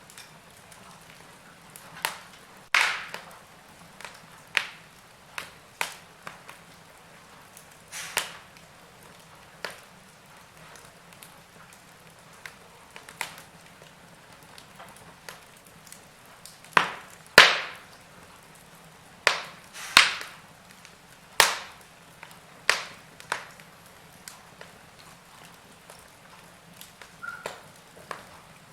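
Wood fire crackling in a fireplace: irregular sharp snaps and pops, a few of them loud, over a faint steady hiss.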